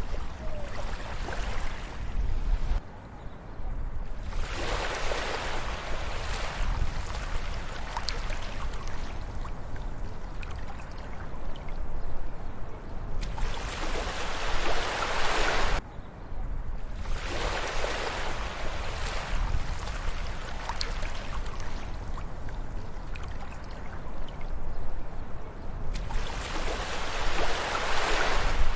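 Sea waves breaking and washing up a beach, swelling in surges every several seconds over a low rumble.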